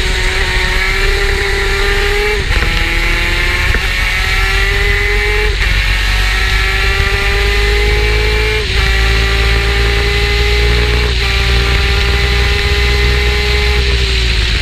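Superkart's two-stroke racing engine running at high revs. Its pitch climbs slowly and then drops abruptly at each upshift, four times, roughly every three seconds.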